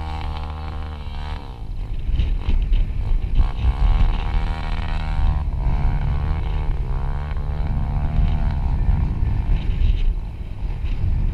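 Honda Tornado trail motorcycle's single-cylinder four-stroke engine running under way. The revs drop about a second and a half in, then climb and rise and fall repeatedly, over a heavy low rumble of wind on the microphone.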